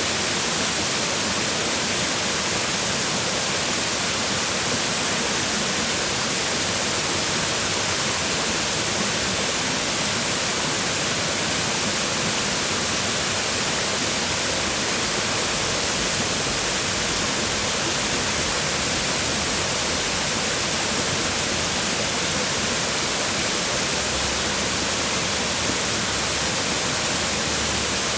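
Weißbach waterfall's water falling and splashing on rocks, a steady, even rush of white water.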